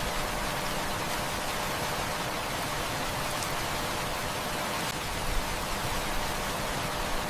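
Heavy rain falling steadily as a dense, even hiss, with a few faint sharp ticks.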